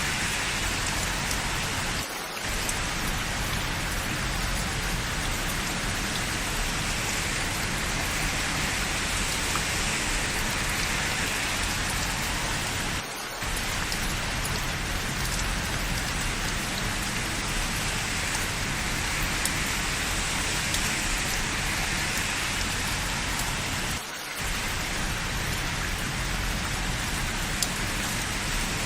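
Steady rain falling, an even hiss with three brief dips about eleven seconds apart.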